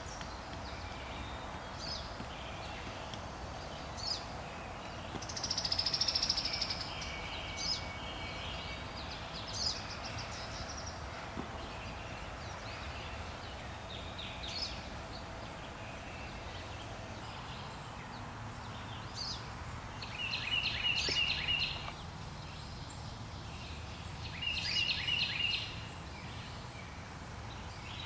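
Wild birds calling and singing: short high chirps every few seconds, a louder burst of song about five seconds in, and two rapid trills of quickly repeated notes, each about a second and a half long, near the end, over a steady low background rumble.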